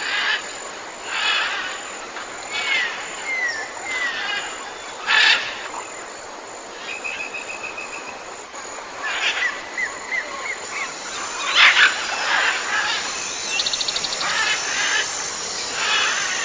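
Several birds calling in turn. Short slurred chirps are mixed with harsh, noisy calls, a brief even trill about seven seconds in and a quick rattle near the end.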